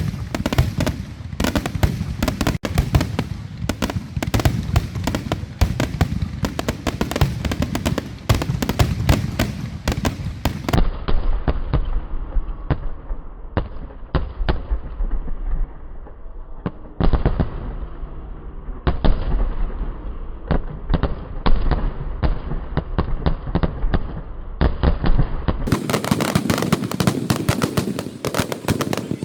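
Fireworks going off in rapid succession: a dense, continuous crackle of many bangs and pops, its sound changing abruptly twice.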